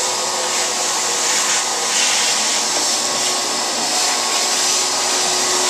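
Vacuum cleaner running steadily, a constant rushing noise with a steady hum.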